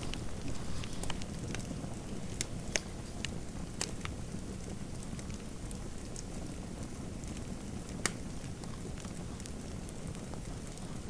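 Wood fire crackling in a fireplace: a steady low rumble with scattered sharp pops, thicker in the first few seconds, and one louder pop about eight seconds in.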